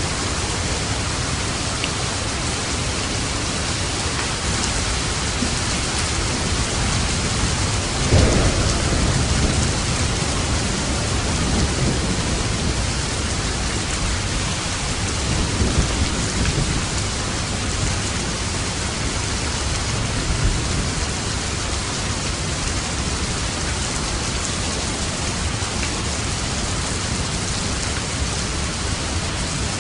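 Steady heavy rain with thunder. A low rumble rolls in about eight seconds in, and smaller rumbles follow a few times after.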